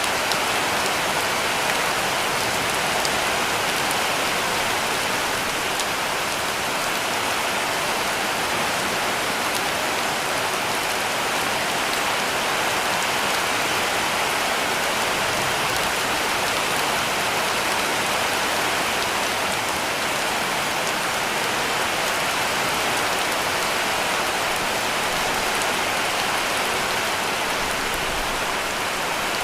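Heavy rain falling steadily on a cabin roof, a dense even hiss of drops with no breaks.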